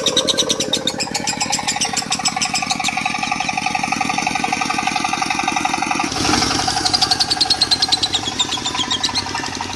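Lovebird chattering in long, fast, unbroken trills, the 'konslet' style, over a diesel engine running with a steady low pulsing; about six seconds in the engine sound swells briefly.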